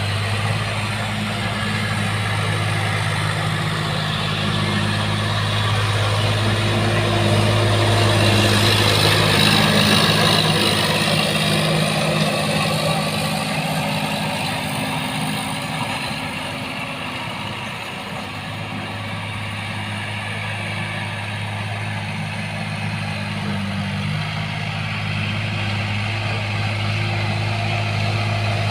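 Sonalika DI 50 RX tractor's diesel engine running with a steady low hum. It grows louder about a third of the way in, then eases back.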